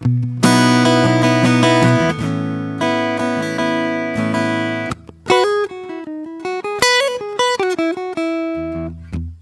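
Acoustic guitar played solo. Two strummed chords are left to ring, then a run of single picked notes moves up and down, and near the end come short low muted strikes.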